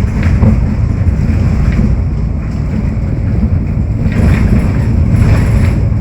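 Steady, loud low rumble of a vehicle running, with brief hissing swells about four and five seconds in.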